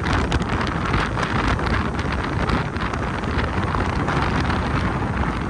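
Strong wind blowing across the microphone: a steady, loud rush with crackling buffets.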